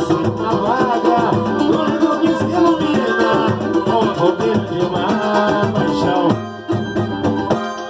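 Samba capixaba song: voices singing over a shaker rhythm and plucked strings, with a short break in the music about six and a half seconds in.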